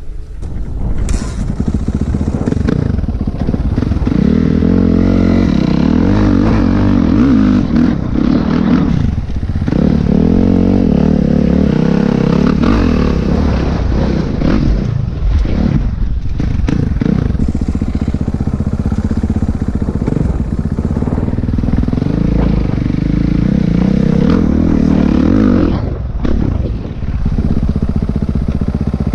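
Four-stroke single-cylinder dirt bike engine being ridden, its note rising and falling as the throttle opens and closes, with brief drops off the throttle several times.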